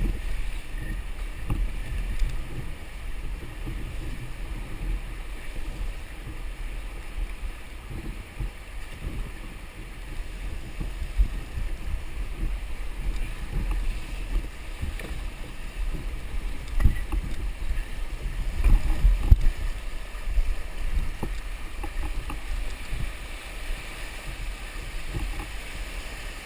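Steady rush of water, with irregular wind buffeting on the microphone.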